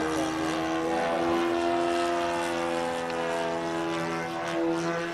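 Radio-controlled model airplane's motor and propeller whining steadily overhead, its pitch wavering slightly as the throttle and flight path change.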